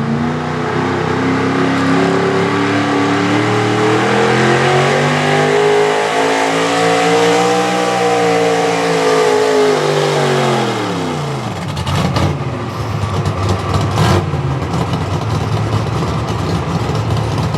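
Small-block 4x4 pulling truck's engine at high revs, pulling the sled under load. The pitch climbs to a peak about eight seconds in, then falls away as the truck slows to a stop, leaving a rougher, noisier sound with a couple of sharp knocks.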